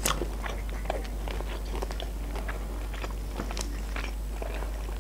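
Chewing and crunching on a crispy breaded fried chicken strip: a crunchy bite right at the start, then scattered crunches and mouth sounds as it is chewed.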